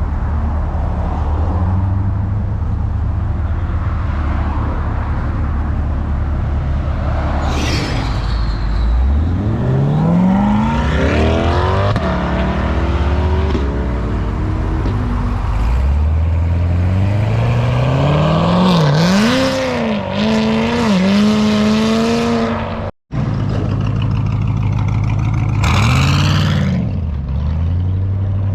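Car engines idling with a low rumble, then revved hard several times in rising sweeps as cars accelerate past. The sound drops out for an instant about two thirds of the way through.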